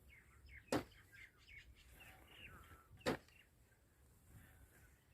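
Small birds chirping and twittering in short rising and falling calls, with two sharp knocks about two seconds apart, the loudest sounds.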